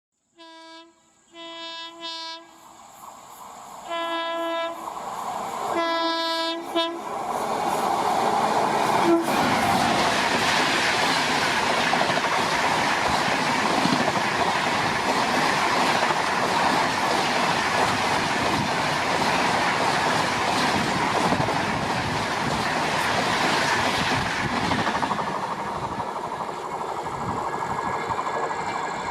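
An Indian Railways express locomotive sounding five short horn blasts on approach, then an express train of LHB coaches rushing past at high speed with a steady loud rumble and clatter of wheels on rail for about twenty seconds, easing off near the end.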